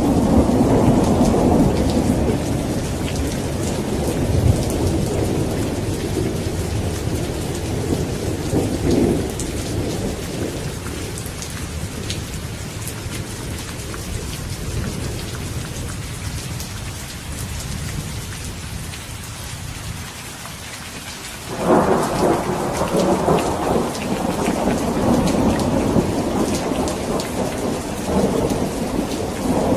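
Steady heavy rain with rolling thunder: the rumble fades slowly over most of the stretch, then a new peal of thunder breaks in suddenly about two-thirds of the way through and keeps rumbling.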